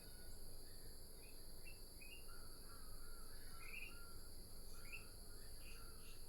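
Faint bird chirps, short rising calls several times over, against a steady high hiss.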